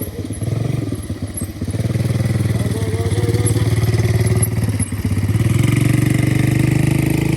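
Go-kart engine running and revving, getting louder from about two seconds in, dipping briefly near five seconds, then rising again.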